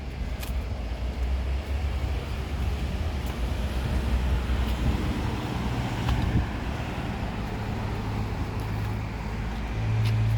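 A motor engine running close by with a low steady hum that steps up in pitch near the end, over outdoor background noise.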